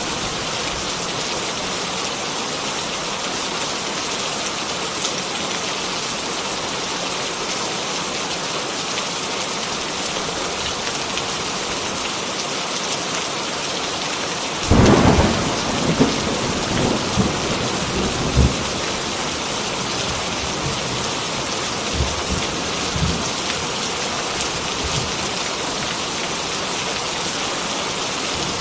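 Heavy rain falling steadily. About halfway through, a loud crack of thunder rumbles on for a few seconds, with fainter rumbles a little later.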